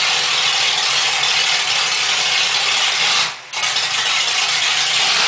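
Chevrolet Opala's naturally aspirated inline-six engine running loudly at a steady speed. The sound drops sharply for a moment about three seconds in and again at the end.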